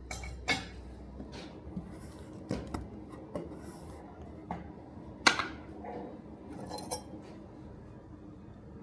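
Light metallic clinks and knocks of metal tools or parts being handled and set down: about seven separate strikes, the loudest about five seconds in.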